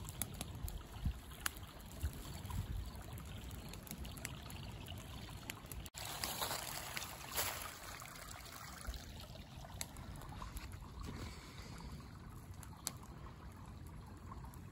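A wood campfire crackling with scattered sharp pops, then, after a cut about six seconds in, a shallow rocky creek trickling over stones, with a few pops still heard later on.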